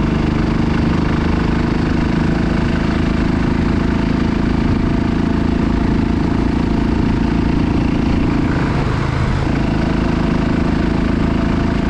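Motorcycle engine running steadily during a ride, with a constant rush of wind and road noise. The engine note briefly drops away about nine seconds in, then comes back.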